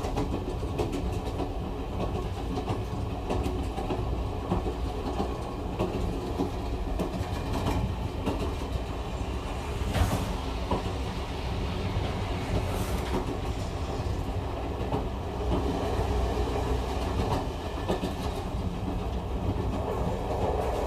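Train wheels clattering over the rail joints with a steady rumble as the train runs along. Two sharper knocks stand out about halfway through.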